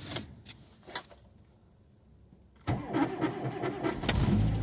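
Hyundai Accent's engine being started on a cold start, at about minus ten outside. A couple of clicks, then the starter cranks for about a second and a half before the engine catches and settles into a steady idle.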